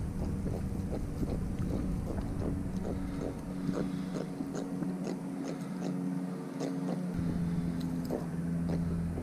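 Boat engine running at a steady hum while the moving hull knocks against small waves several times a second, with wind rumble on the microphone that drops away for a few seconds in the middle.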